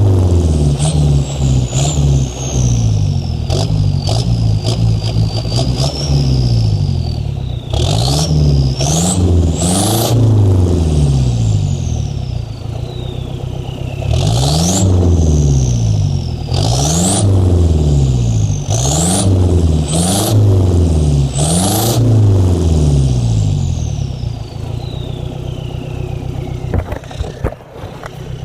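Toyota Land Cruiser BJ40's turbocharged four-cylinder diesel revved in a series of short blips, the turbo whistling up with each rev and spooling down slowly in a long falling whine afterward. It settles back toward idle near the end.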